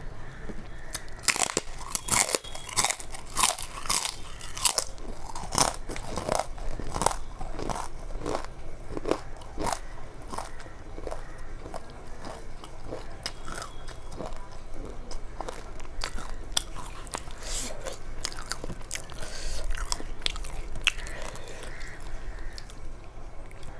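Close-up crunching and chewing of crisp fried papad: many sharp, loud crunches for about the first ten seconds, then fewer, softer chewing sounds.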